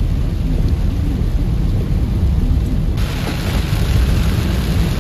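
Heavy rain pelting a car, heard from inside the cabin: a loud, steady low rumble. About three seconds in, a brighter hiss of rain and spray joins it.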